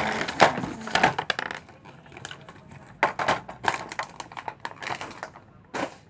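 Plastic packaging of a modelling-dough set being handled and pried at: a dense crackle of crinkles and clicks for about the first second and a half, then scattered sharp clicks and taps.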